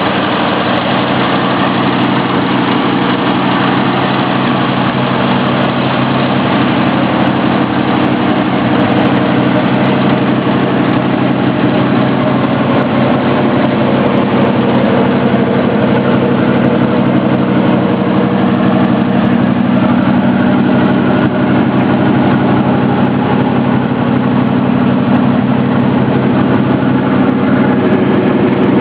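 1979 Ford F-150 Ranger's engine idling steadily.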